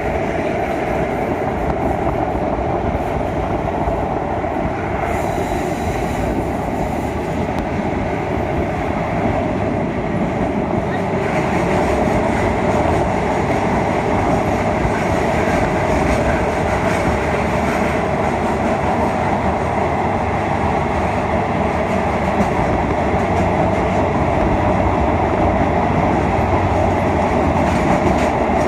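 Passenger train running on its rails, a steady, unbroken noise of wheels and carriage.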